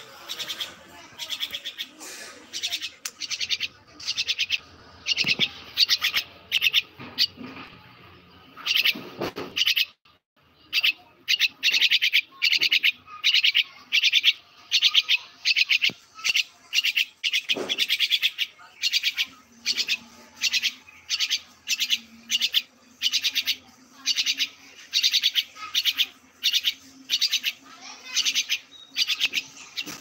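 Bird chirping in short, rapid, high-pitched bursts, repeated steadily about twice a second.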